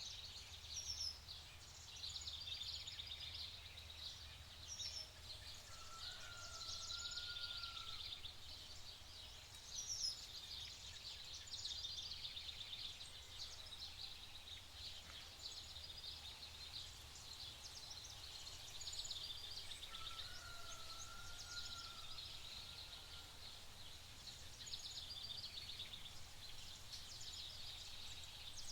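A chorus of small birds chirping and trilling without a break, high-pitched and busy. Twice, about 6 and 20 seconds in, a lower wavering whistled phrase stands out. Under it all is a faint steady low rumble.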